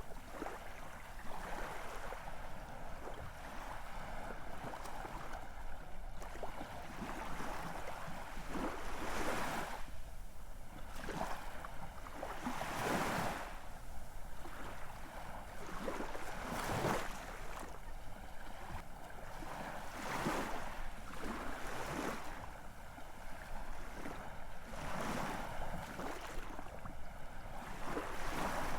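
Ocean waves breaking and washing on the shore: a steady rush of surf with a fresh surge every few seconds.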